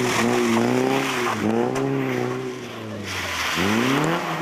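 Rally car engine revving, its pitch rising and falling through the gears, then climbing steeply again near the end.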